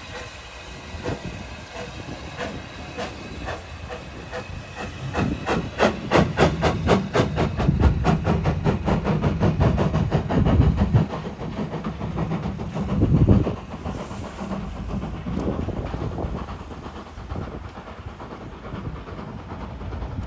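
Steam locomotive passing with a hiss of steam and a rapid, even beat that builds up, is loudest through the middle, then fades away.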